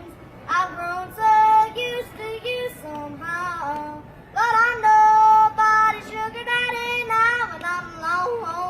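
A young boy yodeling unaccompanied, his voice flipping suddenly back and forth between low and high notes in sung phrases.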